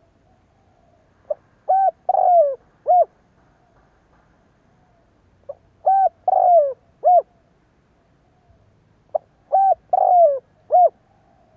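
Spotted dove cooing its song three times, about four seconds apart. Each phrase is a short note, two coos, a longer coo that falls in pitch, and a closing coo.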